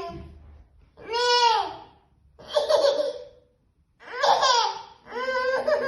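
A young child laughing in four high-pitched bursts, the pitch rising and falling within each, with short pauses between them.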